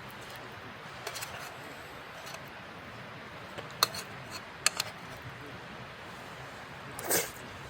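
A few light clinks of tableware, one with a short ring about four seconds in and a quick pair soon after, over a steady background hiss, with a short breathy noise near the end.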